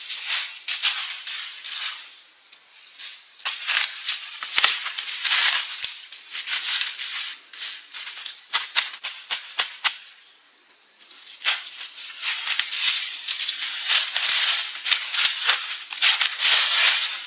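Dry rustling and crackling with many sharp clicks, like dry leaves and twigs being handled or trodden, coming in spells with two short pauses.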